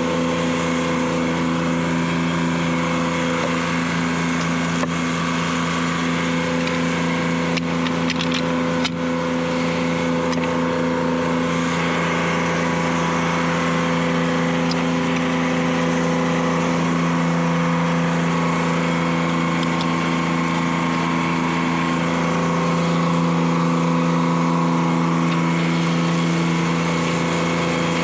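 Detroit Diesel 3-71 two-stroke diesel power unit running steadily at working speed, driving the sawmill. A few sharp clicks sound about eight to nine seconds in.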